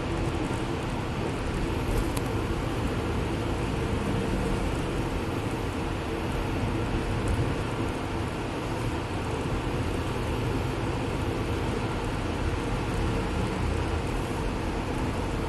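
Steady engine drone and road noise inside a moving bus, with a faint hum from the drivetrain.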